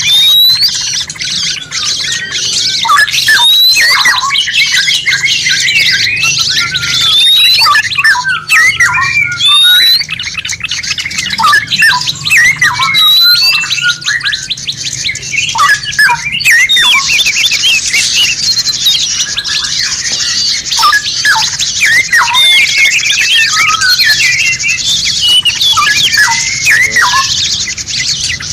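Many songbirds calling at once, a dense run of overlapping quick chirps, squawks and short rising whistles over a steady hiss: a masteran recording of songbird song.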